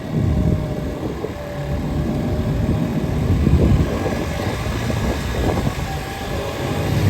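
Motor vehicle running along a road: a steady low engine and road rumble that swells slightly a few seconds in.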